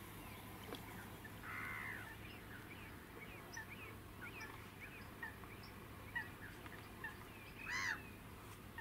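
Faint chirping of small birds throughout, with two louder, harsh bird calls, one about a second and a half in and one near the end.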